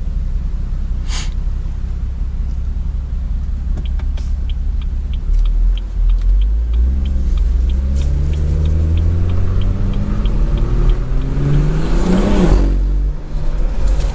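Stage 2-tuned BMW 340i's turbocharged B58 inline-six, heard from inside the cabin: a steady low rumble at first, then a pull with the engine note rising for several seconds before it drops off sharply near the end as the throttle is lifted. A brief hiss about a second in, and a light ticking about three times a second through the middle.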